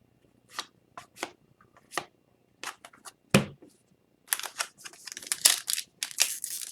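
Trading cards being handled and slid over one another, each a short crisp swish. Then, from about four seconds in, a dense crinkling and tearing of a card pack's wrapper.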